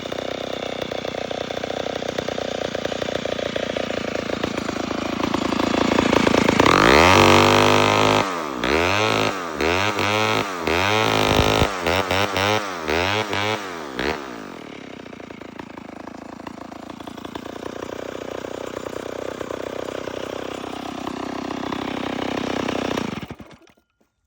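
A 1956 Homelite EZ two-stroke chainsaw engine, just brought back to running, idles, then is revved up and down in a run of quick blips for several seconds before dropping back to a steady idle. The engine sound cuts off near the end.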